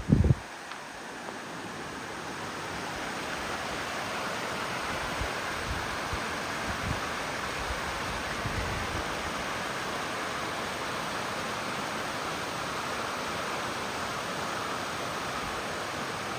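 Steady rushing of flowing water, like a river running over rapids, building over the first few seconds and then holding even. A sharp thump right at the start and a few soft low thuds in the middle.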